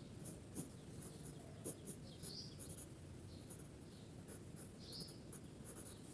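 Faint scratching of drawing strokes on paper, short strokes with a few longer scrapes about two and five seconds in.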